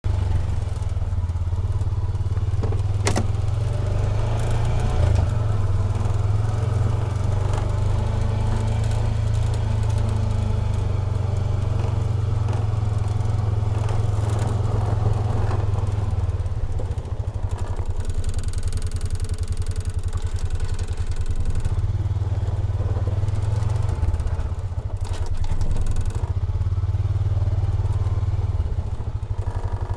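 An engine running steadily with a low, pulsing rumble, with a sharp click about three seconds in and a few scattered knocks.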